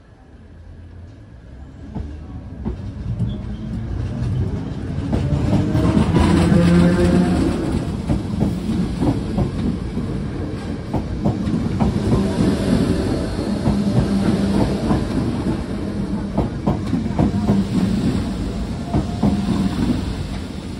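DART electric commuter train passing close by at speed. Its wheels clatter over the rail joints in a steady run of clicks. The sound builds over the first few seconds, peaks a few seconds in, and stays loud as the carriages go by.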